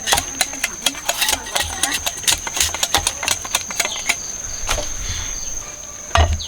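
Rapid, irregular sharp clicks and scrapes from a sugar cane stalk being cleaned and cut by hand, thinning out near the end, with one low thump. A steady high insect trill runs underneath.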